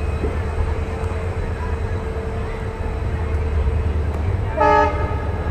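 Passenger train rolling slowly through a station: a steady low rumble of the running coach, with a short horn toot about four and a half seconds in.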